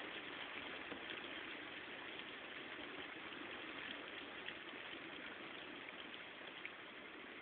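Steady rain falling, an even hiss with scattered small ticks of drops striking.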